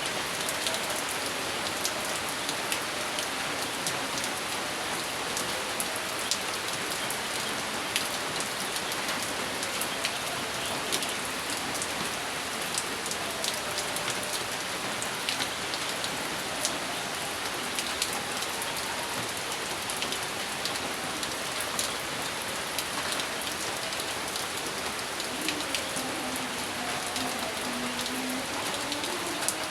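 Steady rain falling on a surface, an even hiss dotted with many sharp ticks of individual drops.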